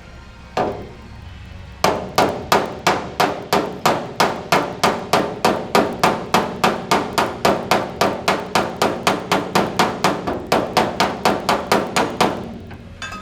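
Body hammer tapping out a dent in a Ford F-150 bedside panel: one lone strike, then a long, even run of sharp metallic taps at about four a second that stops near the end.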